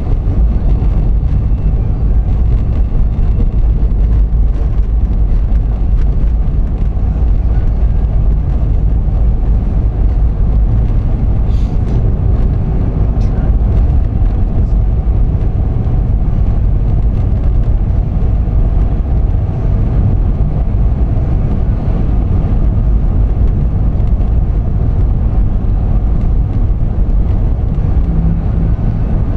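Steady low rumble of a car driving: road and engine noise, even throughout.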